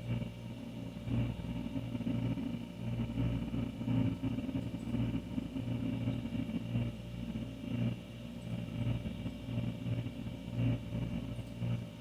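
Older refrigerator running, its compressor giving a steady low hum, with a fainter higher hum above it.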